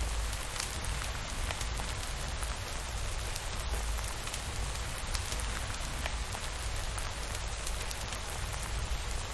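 Steady rainfall, an even hiss with scattered sharp drop-like ticks and a low rumble underneath.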